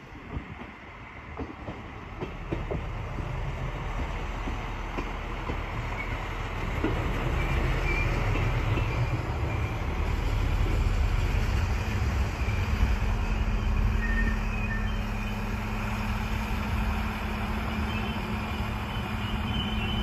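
Arriva Alstom Coradia LINT diesel multiple unit pulling into the station, its diesel engine running with a low rumble that grows as it nears, with a few short faint high squeals as it slows and draws to a stop at the platform.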